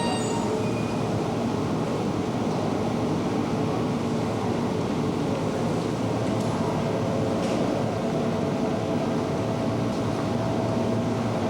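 Electric commuter train running at a station platform: a steady rumble of wheels and motors, with a faint whine coming in about halfway through.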